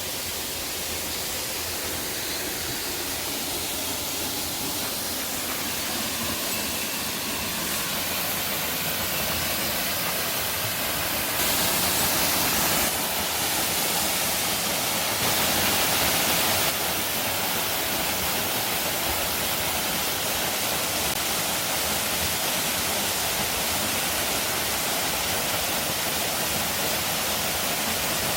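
Waterfall: a steady, even rush of falling water that is louder for a couple of seconds twice near the middle.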